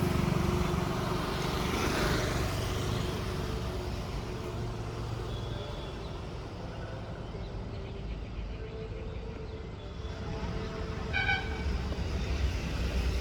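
Motor vehicle running with a steady low rumble, and a short horn beep about eleven seconds in.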